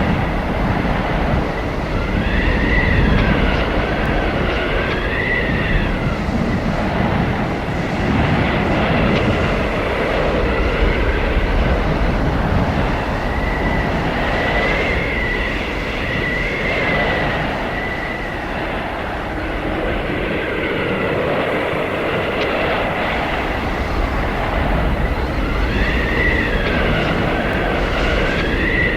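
Blizzard wind blowing hard and steadily, with high whistling howls that rise and fall in pitch. The howls come in gusts a couple of seconds in, around the middle, and again near the end.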